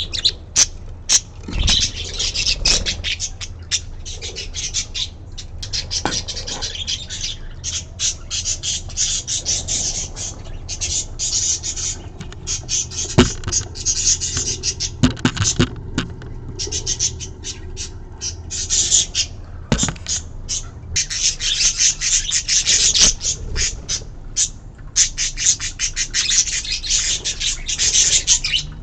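Budgerigars chattering and squawking in fast, scratchy runs of calls with short breaks between them.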